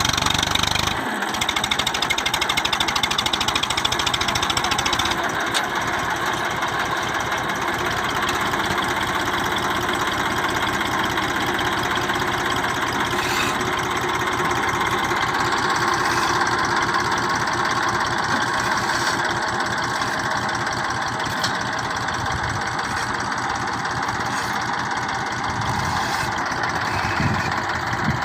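Tractor's diesel engine running steadily with an even chugging beat, with a brief dip about a second in.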